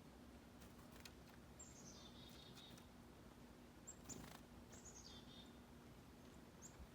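Faint calls of small songbirds: twice, a quick run of high notes that drops into a buzzier phrase, with a few soft clicks in between.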